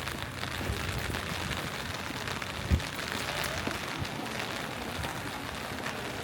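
Steady rain falling on the street, with the fine patter of individual drops. There is a single louder low thump near the middle.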